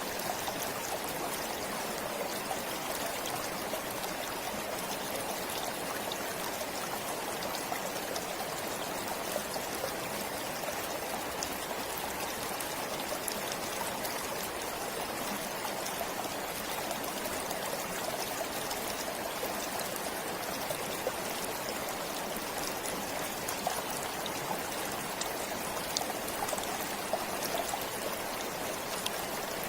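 Forest stream flowing steadily, the water splashing and trickling over stones.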